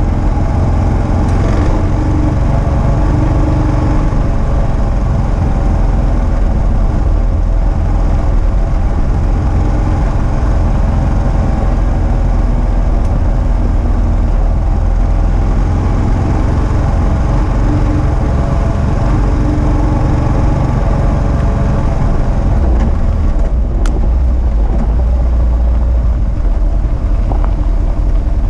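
2022 Kawasaki KLR650's single-cylinder engine running steadily as the motorcycle rides along a gravel road, mixed with road noise. The engine note changes about three-quarters of the way through, and there is a short click just after.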